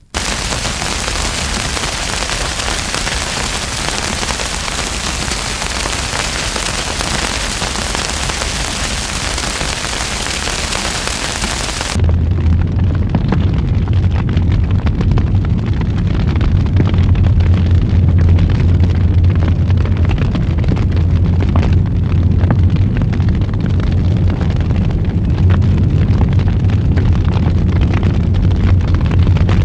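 Wood fire burning in a fireplace: a steady rushing hiss, which about 12 seconds in changes abruptly to a deeper low rumble with frequent small crackles and pops.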